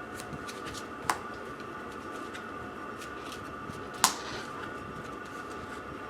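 Trading cards being handled and set down on a tabletop: scattered light clicks, with two sharp taps about a second in and about four seconds in, the second the louder, over a steady room hum.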